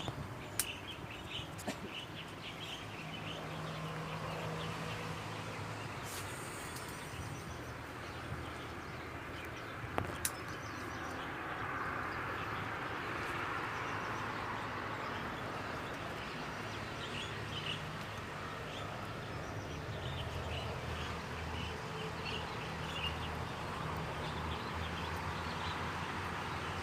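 Outdoor ambience: scattered faint bird chirps over a steady background hiss and a low hum, with a few light clicks.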